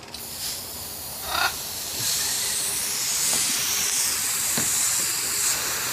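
Fine water spray hissing steadily as a pet bird is misted for its bath; it starts softly and grows louder about two seconds in.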